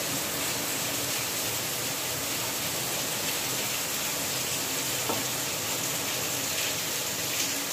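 Chopped vegetables sizzling in hot oil in a non-stick pan over a high flame, stirred with a wooden spatula: a steady frying hiss, with a faint tick about five seconds in.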